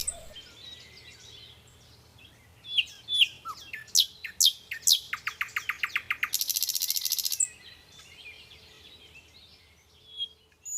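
Birds singing and calling: a string of short, sharply falling whistled notes, then a fast trill, then a loud high buzzy trill lasting about a second, with a few short high chirps near the end.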